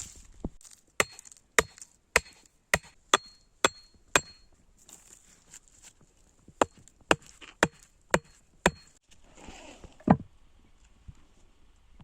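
A metal blade chopping into wood in sharp strokes, about two a second, each with a brief metallic ring. There are seven chops, a pause, then five more, and a heavier thud near the end.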